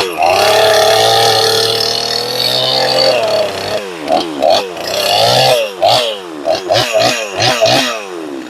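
Stihl MS250 two-stroke chainsaw held at full throttle for about three seconds, then blipped in quick succession, the revs jumping up and dropping back about a dozen times before falling to idle near the end.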